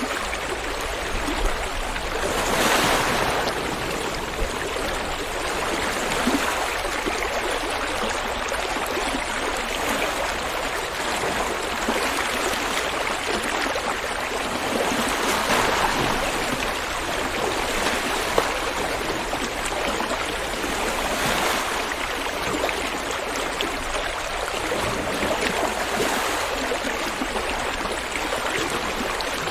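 River water flowing in a steady rushing hiss that swells slightly every few seconds.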